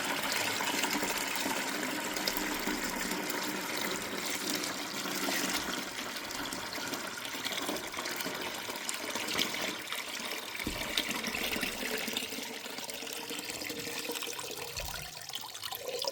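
Citric-acid rust remover pouring out of a lawn tractor's gas tank in a steady gush, thinning toward the end as the tank drains.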